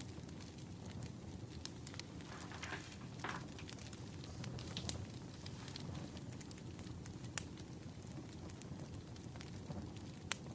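Burning firewood crackling, with irregular sharp pops over a steady low rumble of the fire. There is a brief soft hiss about three seconds in.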